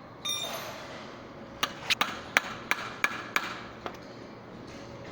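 A hammer striking metal: a clang that rings briefly, then a quick run of about seven sharp blows, roughly three a second, that stops after a couple of seconds.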